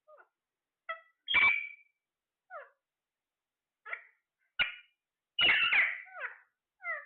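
Parrot calling in a series of short squawks and chirps, several sliding down in pitch, with louder harsh calls about a second and a half in and a cluster near the end.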